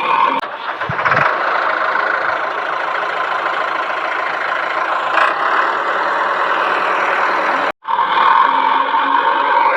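A vehicle engine running steadily, with a brief complete gap about eight seconds in before it resumes.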